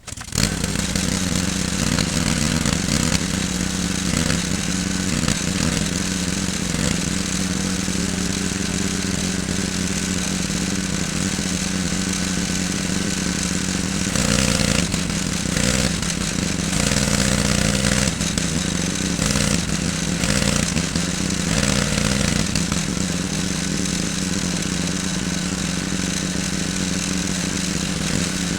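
Pressure washer starting up and running steadily, its small engine humming under the hiss of the water jet as it sprays degreaser off an engine block. The spray hiss grows louder in spells about halfway through.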